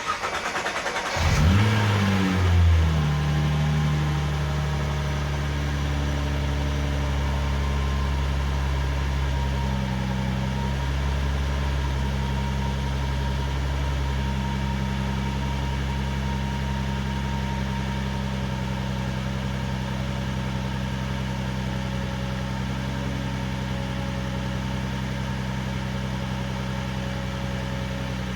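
Nissan GT-R Nismo's twin-turbo V6 being started: the starter cranks for about a second, the engine catches with a brief rise in revs, then settles into a steady idle. This is the first start after an oil change, run at idle to circulate the fresh oil, fill the new filter and purge air from the oil system.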